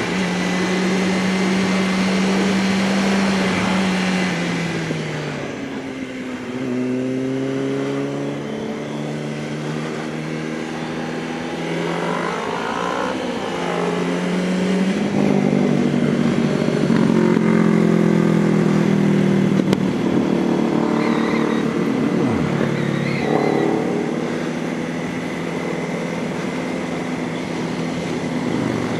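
Motorcycle engines on the move in a group ride, with wind noise. The engine note holds steady, drops as the bike slows about five seconds in, then climbs again several times as it accelerates, loudest around the middle.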